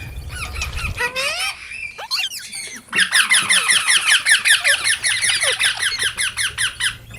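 Green parrots calling: a few varied short calls, then about three seconds in a rapid run of shrill chirps, about eight a second, that lasts some four seconds.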